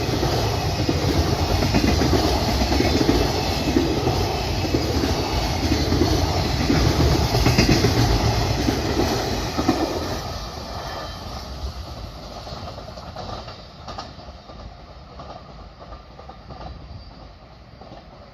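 Freight train running past on the rails, loud for about ten seconds, then fading steadily as it moves away.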